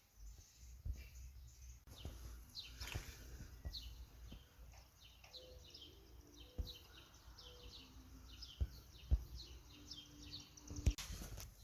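Small songbirds chirping, a quick run of short, high chirps over a low rumble, with a few sharp thumps.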